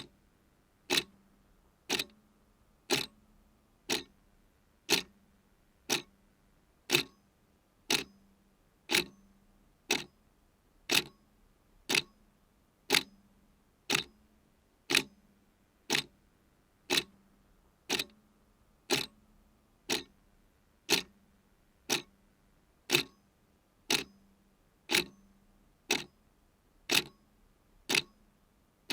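A clock ticking steadily at one sharp tick a second, each tick with a brief low ring after it.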